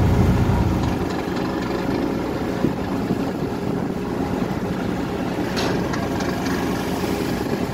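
Ship's engine running steadily under way, a low hum over a steady rushing noise; the low hum drops back about a second in.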